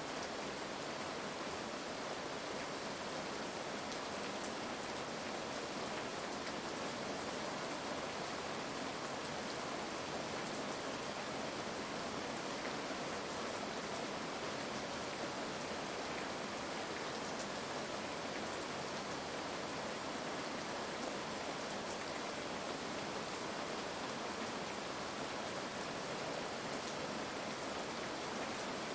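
Heavy rain falling steadily, an even hiss with fine drop ticks and no thunder.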